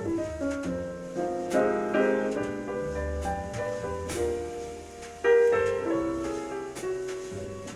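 Piano music played back from a vinyl record, with notes struck one after another and a louder chord about five seconds in.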